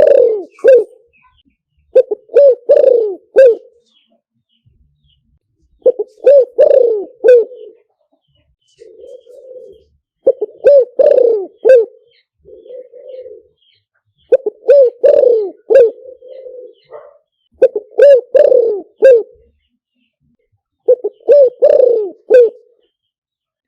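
Spotted dove cooing loudly: a decoy bird's song, in repeated phrases of three or four coos about every four seconds, with two softer rolling notes between phrases partway through.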